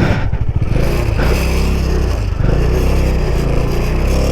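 Motorcycle engine running under way on the ride, getting louder about halfway through as it is throttled up.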